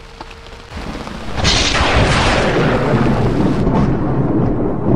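Heavy downpour: rain beating on the tent and tarp and water streaming off the flysheet. It comes in abruptly about a second in and stays loud and steady, with a deep low rumble underneath.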